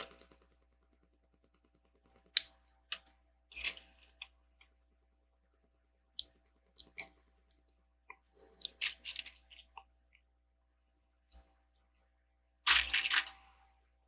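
Plastic Lego bricks clicking and clattering as they are picked up, handled and pressed together: scattered single clicks with short bursts of rattling, the loudest burst near the end.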